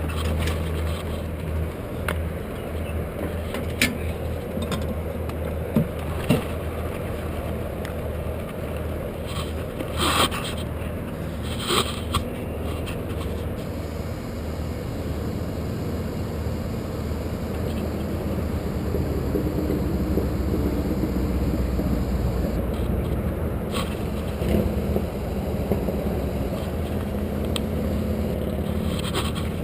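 A steady low drone with a handful of short knocks and scrapes scattered through it.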